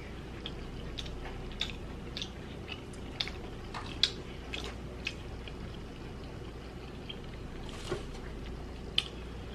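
A person chewing food with the mouth close to the microphone: irregular wet clicks and smacks over a low steady hum.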